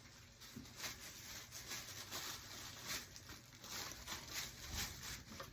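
Soft, irregular rustling and crinkling of tissue paper being handled and folded around a shirt.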